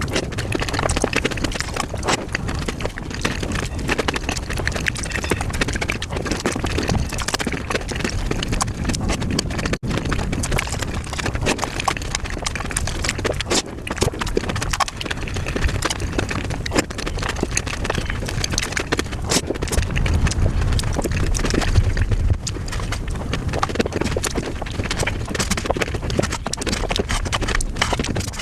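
Close-miked eating of dahi puri played at five times normal speed: crunching of the crisp puri shells and wet chewing sped up into a dense, rapid clatter of clicks.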